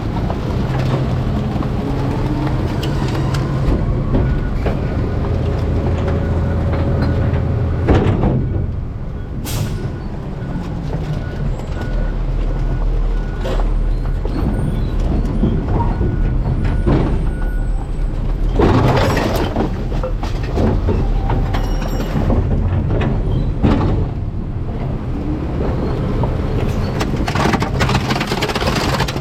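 Garbage truck engine running while its hydraulic packer works the load in the rear hopper: a steady low drone that speeds up in the first few seconds, with scattered knocks and crunches of trash, and a longer burst of crunching a little past the middle.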